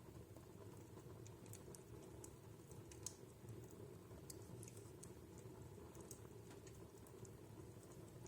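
Wood fire crackling in a fireplace: faint, irregular pops and snaps, with one sharper pop about three seconds in, over a low steady background.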